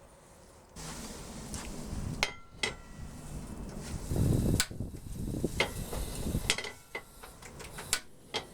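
Metal utensil striking and scraping a hot forged-iron cooking plate, with about six sharp ringing clinks over a steady sizzle that starts about a second in.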